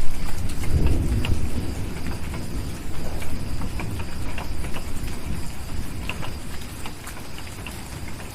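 A roll of thunder, loudest about a second in and slowly fading away, over steady rain. Scattered sharp crackles of a wood fire pop throughout.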